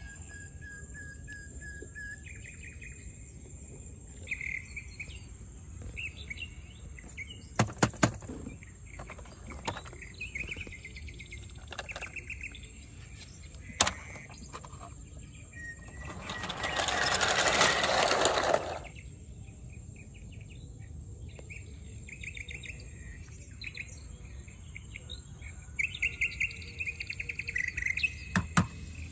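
Birds chirping in short repeated phrases, with a few sharp knocks and, about halfway through, a loud rushing noise lasting about two seconds.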